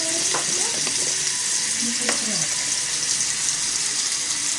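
Kimchi sizzling in a mini iron pot: a steady, dense frying hiss.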